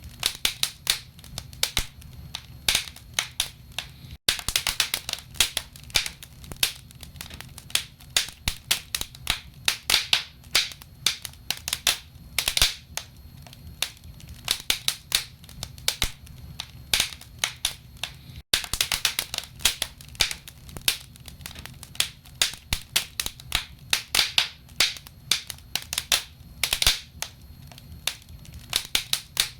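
Wood fire crackling in a fireplace: logs giving irregular sharp snaps and pops, several a second, over a steady low rumble. The sound drops out for a split second twice.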